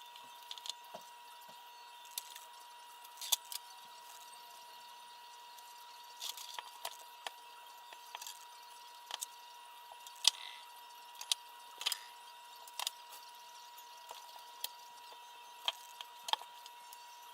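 Irregular light clicks and taps of small parts and tools being handled during hand assembly, over a steady faint high-pitched hum.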